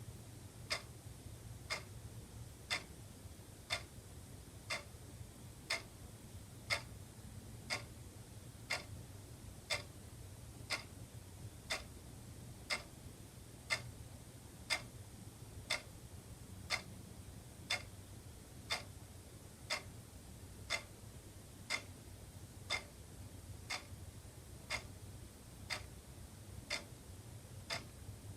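Wall clock ticking steadily, about two ticks a second, alternating stronger and weaker like a tick-tock, over a faint low hum.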